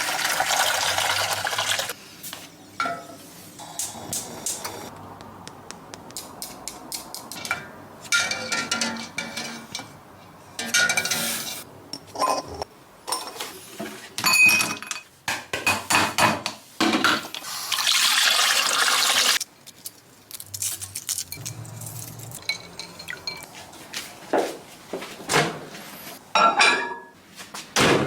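Kitchen handling sounds: dishes and glassware clinking and knocking, with water running or being poured in several spells of one to two seconds each.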